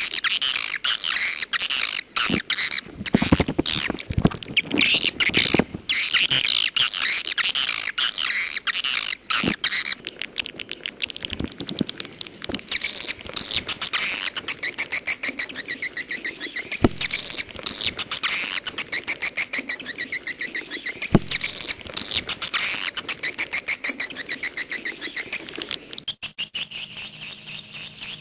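Edible-nest swiftlets twittering in a dense chirping chorus. From about ten seconds in the calls become a rapid, even train of ticking chirps, and near the end they change to a steadier, higher twitter.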